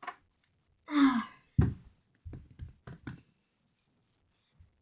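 A short voiced sigh-like sound falling in pitch about a second in, followed by a dull thump and a few soft knocks, as of toys being moved about.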